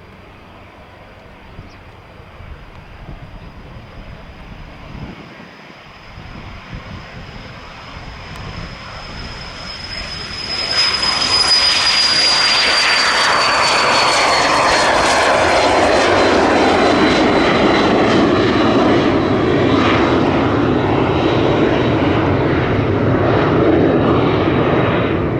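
Jet airliner taking off: engine noise faint at first, rising sharply about ten seconds in to a loud, steady roar, with a high engine whine sliding slowly down in pitch as it passes.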